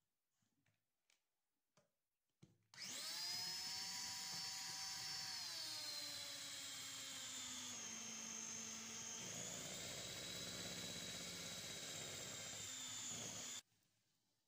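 A small electric motor appliance starts, runs steadily for about eleven seconds and cuts off suddenly. Its pitch drops about three seconds after it starts, and its tone changes again partway through.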